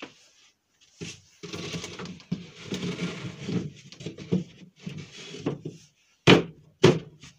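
Wooden parts being handled: several seconds of uneven scraping and rubbing, then two sharp knocks of wood near the end.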